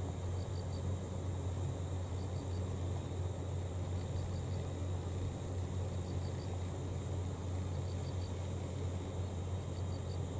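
Crickets chirping in groups of three short pulses about every two seconds, over a steady high insect trill and a constant low hum.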